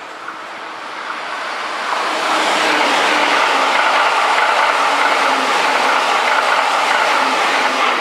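Keihan 3000-series electric train passing close by: steel wheels running on the rails in a loud, steady rush that builds from about a second in and is at full strength from about two seconds on.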